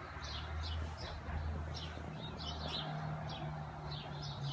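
Small birds chirping, a string of short high chirps a couple of times a second, over a low steady hum.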